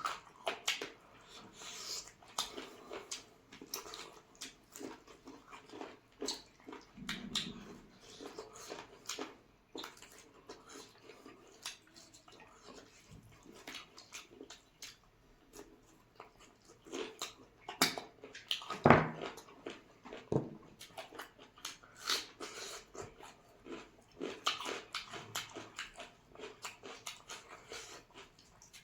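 Two people eating chicken curry and rice: irregular wet chewing and smacking with many small clicks, and one louder knock a little past halfway.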